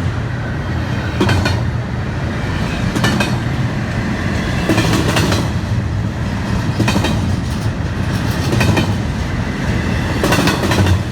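Train 950's cars rolling past with a steady low rumble, their wheels clacking over the rail joints roughly every two seconds.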